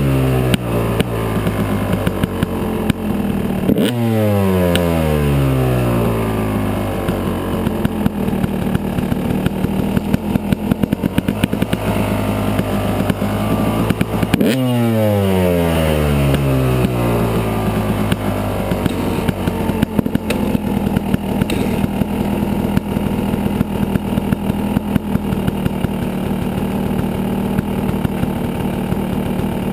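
Yamaha 250 dirt bike engine running under way, its revs changing sharply about 4 seconds and 14 seconds in, then running more steadily.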